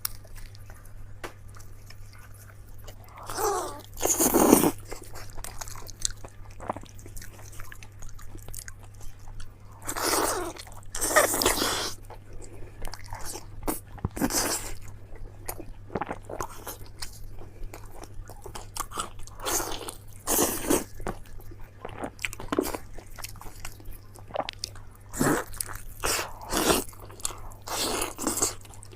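Close-miked biting and chewing of a large piece of meat: loud crunching bites every few seconds, with steady small chewing clicks in between.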